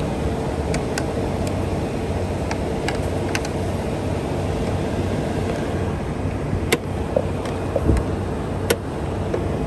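The 2020 Ford F-150 Raptor's twin-turbo 3.5-litre EcoBoost V6 idling steadily, heard with the hood open, with a few sharp clicks near the end.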